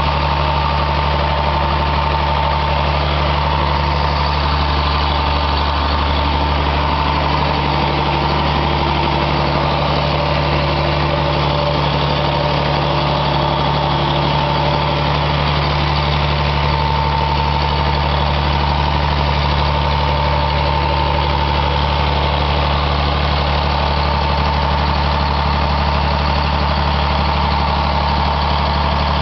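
Engine running on 100% biogas to drive an electric generator, holding a constant speed with a steady low hum and an even higher tone over it.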